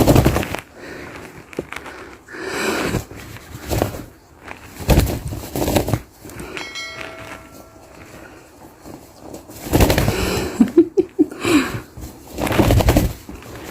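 A pet lovebird playing: irregular scuffles and knocks, with a brief bell-like ring about halfway through.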